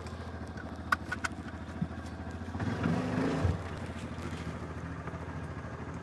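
Yamaha Rhino side-by-side's engine running steadily, rising in pitch and getting louder for about a second near the middle as it revs, with a few sharp clicks about a second in.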